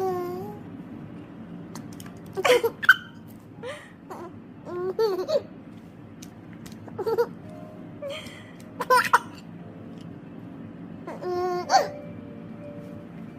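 Four-month-old baby laughing and squealing in short bursts, about seven of them with pauses between, over a steady low hum.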